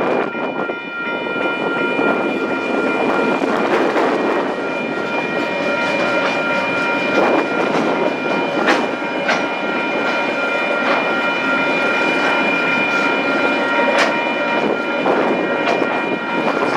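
A KiwiRail freight train of container and curtainsider wagons rolling past, wheels clicking over the rail joints. Several steady high-pitched squealing tones continue throughout.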